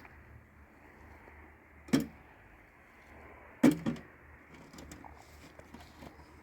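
Two sharp thumps about a second and a half apart, the second louder and followed at once by a smaller knock, over a low steady background hum.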